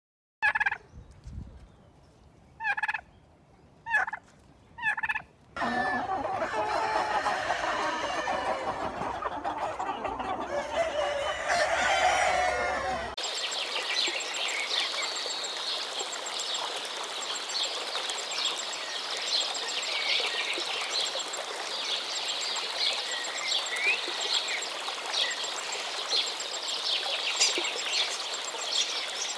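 Birds calling: five short separate calls, then a dense clamour of many overlapping calls. About thirteen seconds in, the sound changes abruptly to a high, continuous chorus of small chirps.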